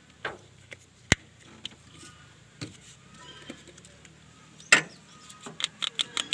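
Sharp clicks and knocks of parts being handled, the sharpest a little over a second in, with a quick run of clicks near the end.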